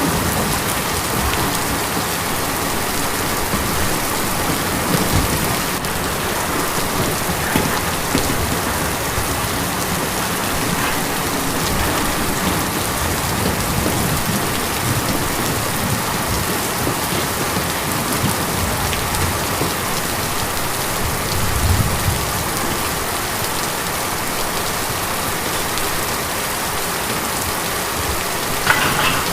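Steady rain drumming on a tin roof, a dense even patter with the occasional louder drop hit.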